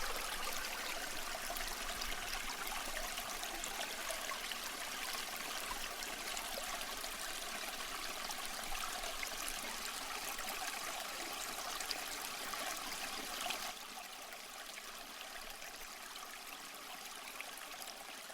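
Garden pond waterfall running: a steady rush and trickle of falling water, which drops a little in level about two-thirds of the way through.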